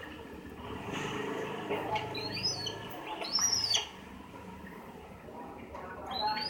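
A bird calling in short, high, arched chirps: a pair about two seconds in, another about three and a half seconds in, and one more near the end, over a steady low background rumble.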